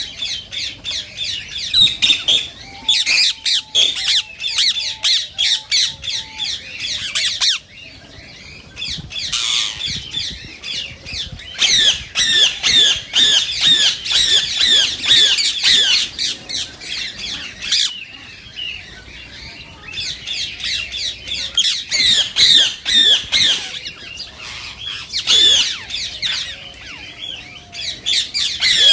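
Indian ringneck parakeets (rose-ringed parakeets) calling: rapid runs of shrill squawks and chatter in repeated bouts with short pauses between them.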